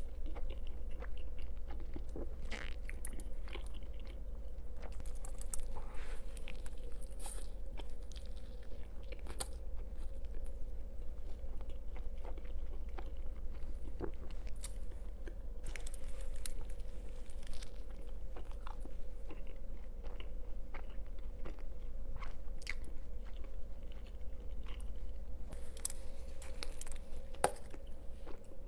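Close-miked chewing and biting of food, with scattered short crunches and wet clicks, over a steady low hum.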